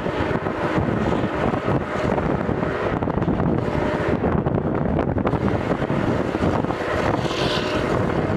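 Steam-hauled excursion train running at speed, heard from an open coach window: a steady rumble of wheels on the rails with wind buffeting the microphone.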